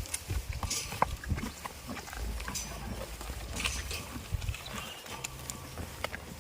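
Goats moving about close by: scattered clicks and knocks over a low rumble, without a clear bleat.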